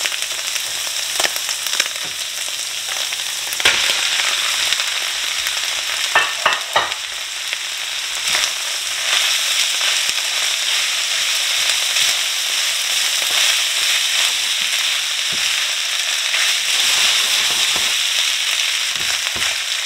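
Fried rice with diced Spam and vegetables sizzling in hot oil in a stainless steel skillet, a steady loud hiss, while a silicone spatula stirs it. A few sharp clicks are scattered through it.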